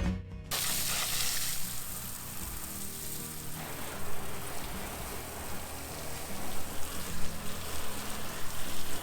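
Steady hiss of spraying water, with a faint low hum underneath.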